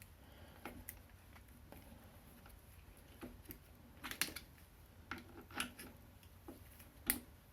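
Bicycle disc brake pads being worked out of the caliper and handled: faint, scattered small clicks and taps of metal parts, the sharpest about four seconds in and near the end.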